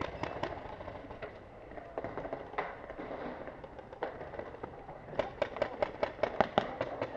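Paintball markers firing: scattered single pops, then about five seconds in a rapid string of shots, about six or seven a second, for around a second and a half.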